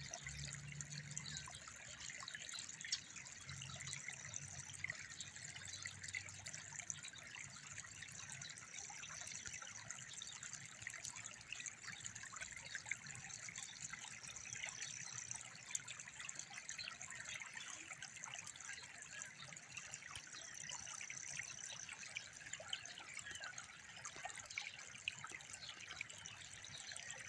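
Steady trickling water, with a faint high thin tone that comes and goes about every five or six seconds.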